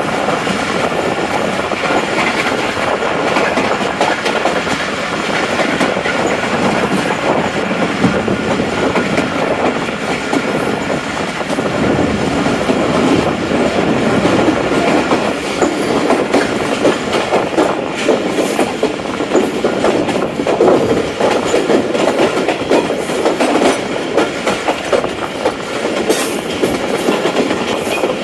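Passenger train running along the line, a steady loud rumble of the coaches with the wheels clattering over the rail joints.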